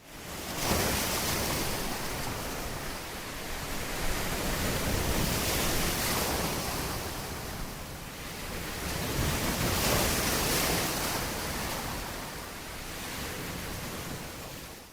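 Ocean waves breaking and washing on a shore, swelling and easing three times.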